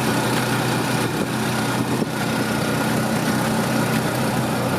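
Motor vehicle engine running steadily under even road noise, a constant low hum while riding along the road.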